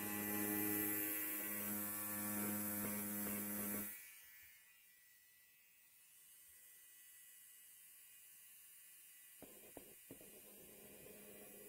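Electric hair clipper buzzing steadily, then cutting off suddenly about four seconds in. A few faint clicks come near the end.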